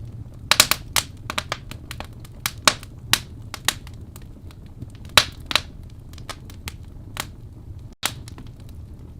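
Wood fire burning in a fireplace: irregular sharp crackles and pops over a steady low rumble of the flames, with a split-second break in the sound near the end.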